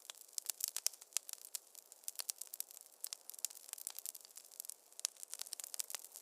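Wood fire crackling in a fireplace: dense, irregular snaps and pops, several a second, over a faint hiss.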